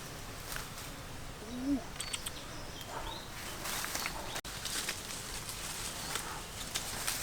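Quiet outdoor ambience with a few faint short animal calls and scattered light ticks.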